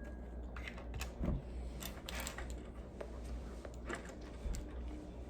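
Small plastic clicks and rustles of Lego pieces being handled and pressed together, a few sharp ticks scattered through it over a faint steady low hum.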